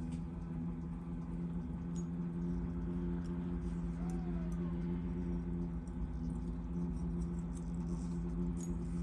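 A small carbureted gasoline engine running steadily in the distance, giving a constant hum. The listener suspects it is running on stale fuel after storage and says it still doesn't sound good. Faint small clicks and ticks sit over it.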